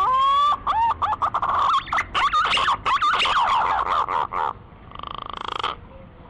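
Green pigeon (Treron) calling: a rising whistle, then a run of rapid, wavering fluty whistled notes. A short buzzy, rattling phrase follows about five seconds in.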